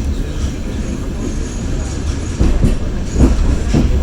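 Passenger train carriage rolling along the track: a steady low rumble with the wheels clacking over rail joints, several sharp knocks coming in the second half.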